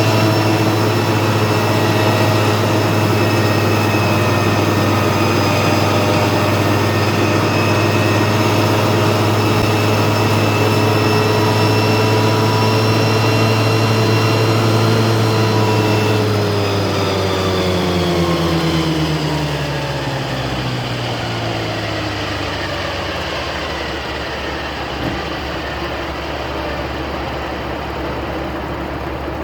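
Tractor engine running steadily at working speed, then throttled down about halfway through, its pitch falling over several seconds before it settles into a lower, quieter idle.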